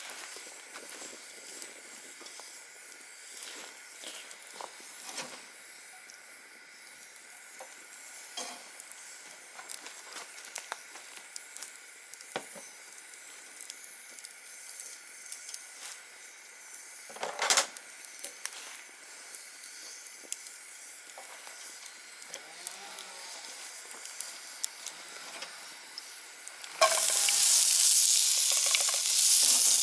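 Campfire crackling with scattered sharp pops over a faint steady hiss. About 27 s in, a loud sizzle of frying starts suddenly and carries on.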